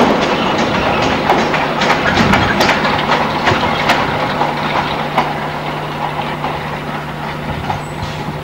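A train rumbling past out of sight, its wheels clicking over the rail joints, fading as it moves away. A steady low hum joins about two and a half seconds in.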